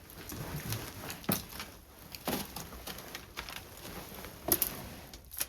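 Footsteps and scattered knocks and shuffles in a small room, irregular, with a few sharper clunks about a second, two seconds and four and a half seconds in.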